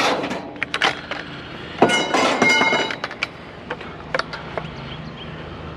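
Metal pieces clinking and clattering as they are handled and slid into place, with a louder rattle about two seconds in that rings briefly.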